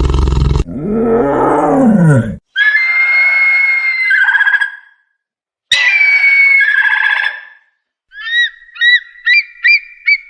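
A string of separate animal calls cut one after another: a roar that ends about half a second in, then a call that rises and falls in pitch, two long high steady calls, and near the end a quick run of short chirps.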